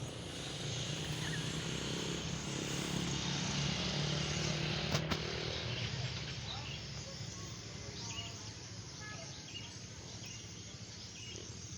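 Small electric motors and propellers of a homemade model airplane, powered by the motors of a TXD8S toy drone, buzzing in flight. The sound swells to its loudest about four to five seconds in, with a sharp click, then fades.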